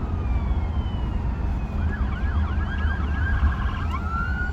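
Emergency vehicle siren: a slow falling wail, switching about two seconds in to a rapid yelp of about four sweeps a second, then back to a slow rising wail near the end, over a steady low rumble.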